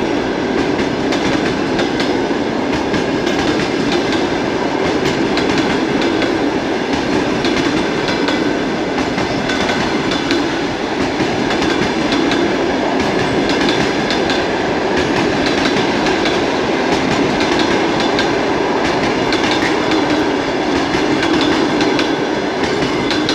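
Passenger train hauled by a ChS4t electric locomotive rolling past at speed, its wheels clattering steadily over the rail joints.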